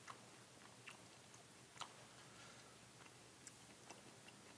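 Faint chewing of a mouthful of apple, with a few soft, crisp crunches, the clearest about two seconds in.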